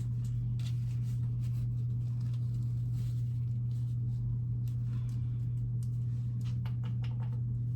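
A steady low hum throughout, with faint small clicks and taps scattered over it.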